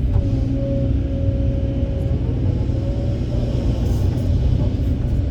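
Heavy diesel construction machinery running steadily with a low rumble and a thin whine on top.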